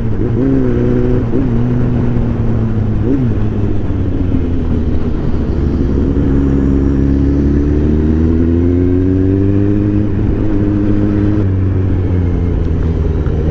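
Motorcycle engine running steadily while riding, its pitch drifting slowly up and down with the throttle over a constant low rumble.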